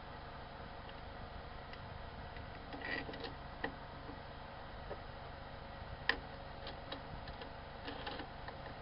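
Scattered light clicks and taps over a steady low hum, the sharpest click about six seconds in.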